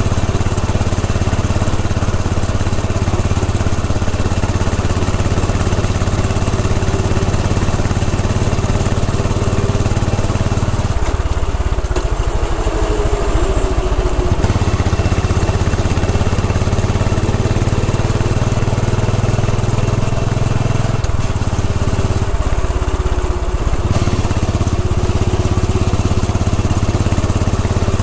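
Royal Enfield Bullet 500's single-cylinder engine running as the motorcycle is ridden along, with wind rush over it. Twice, about halfway through and again about three-quarters through, the low engine note falls away for a couple of seconds before coming back.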